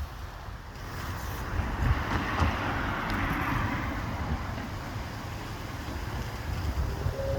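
Wind buffeting the microphone with an uneven low rumble, and a broader rushing noise that swells about two seconds in and then fades.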